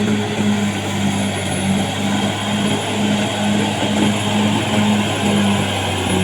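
Caterpillar D6R XL bulldozer's diesel engine running steadily, a deep even drone with a noisy clatter over it.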